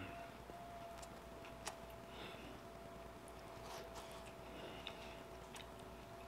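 Faint chewing of a mouthful of pheasant and onion, with a few small mouth clicks spread through, over a faint steady hum.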